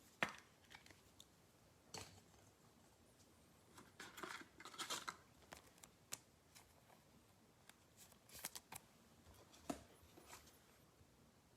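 Faint handling of trading cards and pack wrappers: scattered soft clicks and short crinkling rustles, with a few brief clusters and one sharper click near the end.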